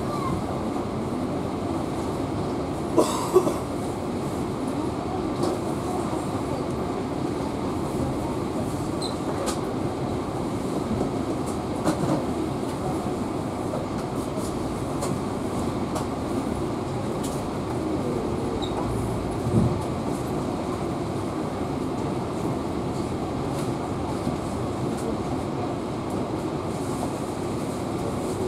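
Passenger train coach rolling into the station, heard from inside the carriage: a steady rumble of wheels and running gear with a few sharp knocks, two close together about three seconds in.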